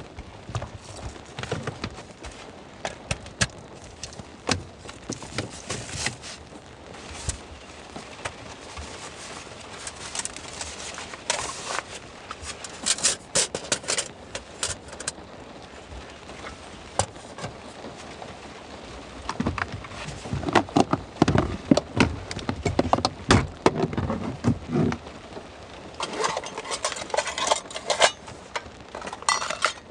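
Irregular clicks, knocks and clatter of objects being handled, with a run of heavier, deeper thumps about two-thirds of the way through.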